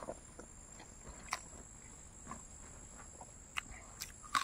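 A person eating close to the microphone: chewing with short, wet mouth clicks and smacks at irregular intervals, the loudest near the end.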